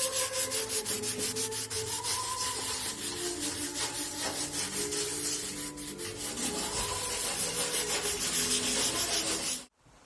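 Sanding: repeated rubbing strokes across a surface, about five a second, which stop abruptly just before the end.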